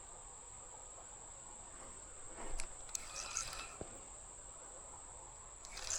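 Insects droning steadily on one high pitch, with a few brief soft knocks and scrapes of gear being handled about halfway through.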